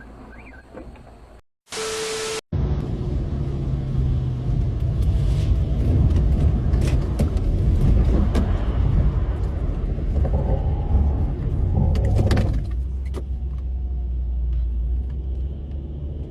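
A motor vehicle's engine running with a loud, steady low rumble, beginning about two and a half seconds in after a short steady tone. A few sharp clicks come near the end.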